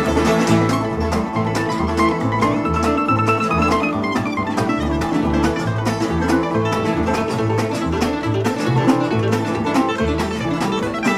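Instrumental break of an old-time string band: acoustic guitar, resonator guitar and mandolin picking over a bass that plays alternating low notes on a steady beat.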